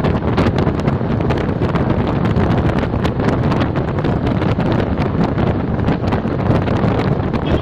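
Strong wind blowing across the microphone, a loud steady rumbling noise without a break.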